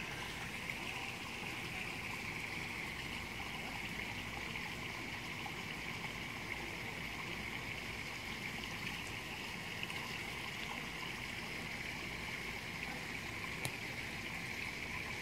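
Steady rushing of flowing stream water, with a single faint click near the end.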